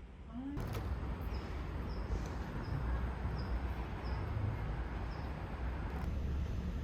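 Steady outdoor rumble and hiss. Over it a small bird gives short, high chirps at an even pace, about three every two seconds.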